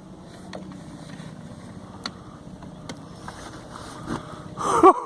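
A kayak's motor running steadily as a low hum, with a few sharp clicks; the hum cuts off suddenly near the end as a loud voice begins.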